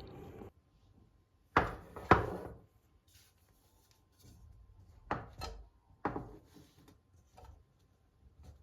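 Kitchen knife chopping on a wooden cutting board: separate sharp knocks, two loud ones about half a second apart near one and a half seconds in, then a few more spread out and fainter. A steady rushing noise stops about half a second in.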